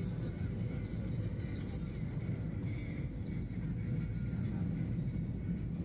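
Steady low rumble of an Airbus A320's passenger cabin from its engines and the airflow, with a faint steady hum above it.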